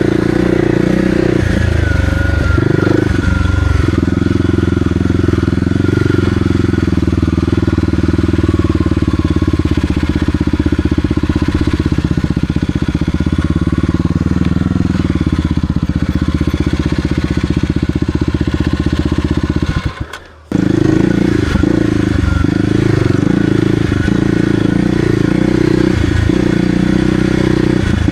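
Kawasaki KLX300R dirt bike being ridden, its single-cylinder four-stroke engine running steadily with the revs shifting a little. The sound drops out suddenly for about half a second around two-thirds of the way through, then carries on.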